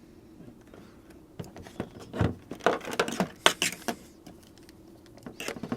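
Irregular clicks, taps and light rattles of hand-handled tools and parts, from the new ignition coil being set up for a quick bench test. The clicks come in a cluster from about a second and a half in to about four seconds, then again briefly near the end.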